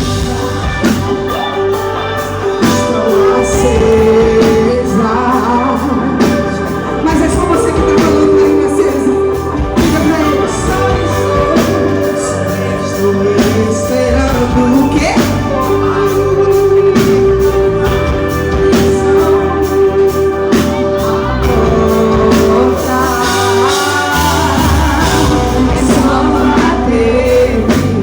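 Gospel song performed live: a singer over a band with guitar and a steady beat.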